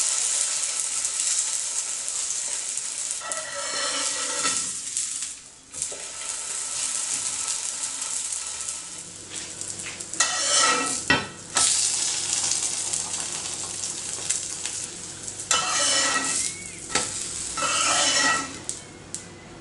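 Filled msemen (rghaif) dough sizzling in oil in a hot cast-iron pan. Several times a metal spatula scrapes under the flatbread and turns it, each pass louder for a second or so.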